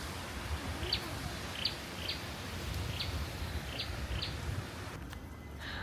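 A bird chirping in short, high notes, six of them over about four seconds, above a steady low outdoor rumble.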